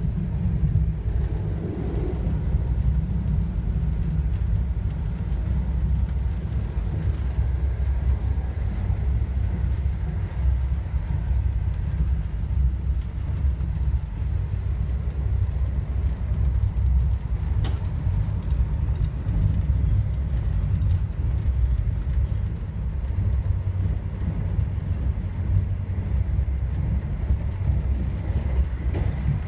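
Steady low rumble of a ScotRail HST (InterCity 125) rolling along at speed, heard from inside a passenger coach, with one sharp click about eighteen seconds in.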